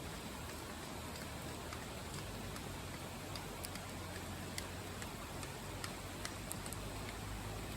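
Steady rushing of a nearby river, with scattered sharp crackles and pops from a wood fire burning in a Picogrill fire pit.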